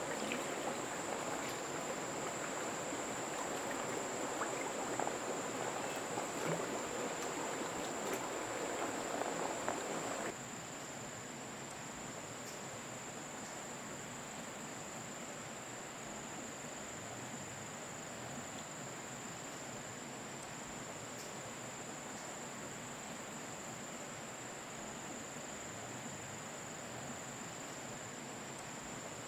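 Water splashing and flowing for about ten seconds, with small clicks in it, which then stops abruptly. Insects keep up a steady, high, even drone throughout.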